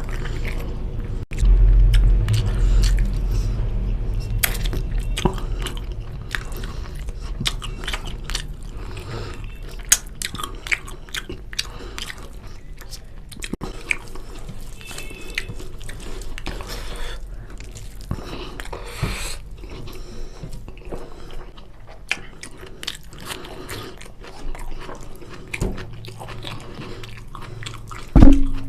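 Close-up eating sounds: a person biting and chewing chicken curry with rice, with wet smacks and small crunches coming in irregular clicks over a steady low hum. One loud low thump comes near the end.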